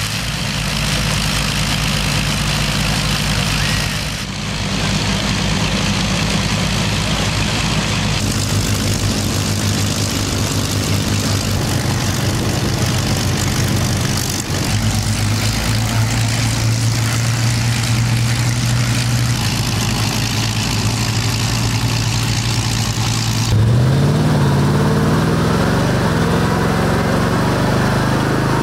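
Rolls-Royce Merlin V12 aircraft engines running at idle in a run of short clips, the note changing abruptly at each cut. About 23 seconds in, an engine's pitch rises steadily as it picks up speed after starting.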